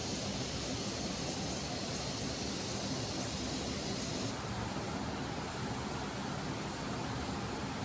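Mountain stream water rushing down a slope, a steady full hiss with no pauses; the higher part of the hiss eases slightly about four seconds in.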